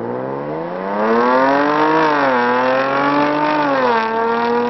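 Jaguar F-Type prototype's engine accelerating hard on a test track. The pitch climbs, falls back about two seconds in, climbs again and falls back near four seconds, then holds steady.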